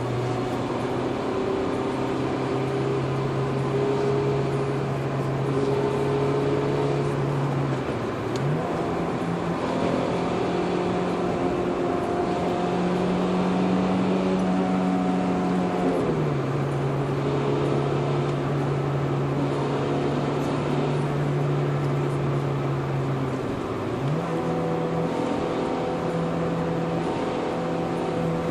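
Toyota Corolla E12 TS's 2ZZ-GE 1.8-litre four-cylinder engine running at steady speeds. Its pitch rises quickly to a higher held speed about eight seconds in, drops back about eight seconds later, and rises again near the end.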